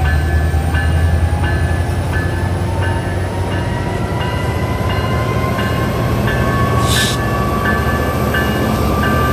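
Metra diesel commuter train at the platform: a low engine rumble under a whine that slowly rises in pitch as the train gathers speed, with a bell dinging steadily about one and a half times a second. A short burst of hiss comes about seven seconds in.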